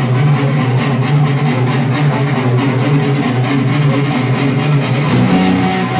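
Live rock band playing an instrumental passage without vocals: electric guitar and bass guitar over drums. Sharp drum and cymbal hits come to the fore near the end.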